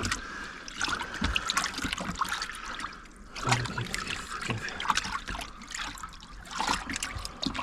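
Irregular small clicks, taps and rustles of hands rummaging through a car's engine bay, searching for a dropped plastic piece.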